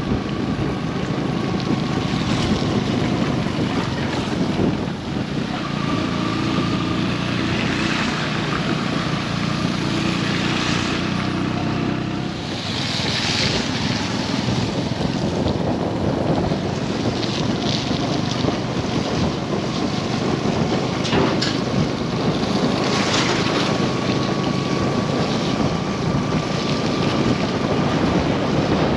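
Busy road traffic: steady engine and tyre noise with wind buffeting the microphone, and a vehicle engine running close by for several seconds in the first half.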